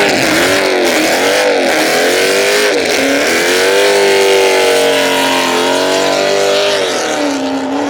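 A car doing a burnout: its engine revs hard, the pitch swinging up and down, then holds high for a few seconds before dropping near the end, over a steady loud hiss of spinning tyres.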